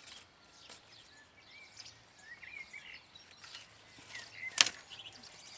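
Quiet outdoor background with a few short bird chirps, scattered small knocks, and one sharp crack a little after four seconds in.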